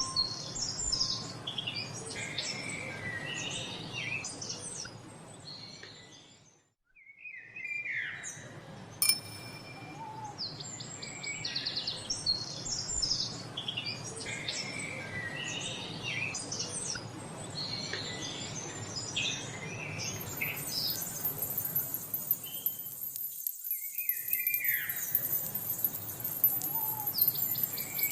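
Many songbirds chirping and singing together, a dense chorus of short calls and trills. It fades briefly almost to silence about seven seconds in and dips again a little after twenty seconds, and a steady high hiss joins in from about twenty seconds.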